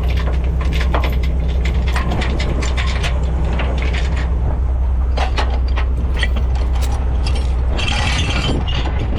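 A truck engine idling steadily, with metallic clinks, clicks and rattles of tow chains and rigging being handled.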